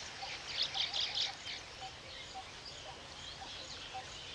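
Weaverbirds chattering: a burst of rapid, high chirps about half a second to a second and a half in, then scattered calls.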